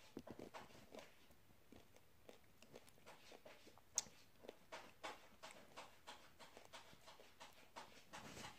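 Faint, irregular crunching and clicking of someone chewing peanut M&M's, with one sharp click about four seconds in.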